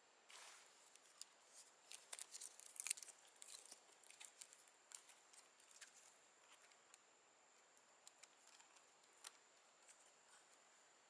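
A run of quick, sharp crackles and clicks, densest in the first few seconds and thinning out toward the end.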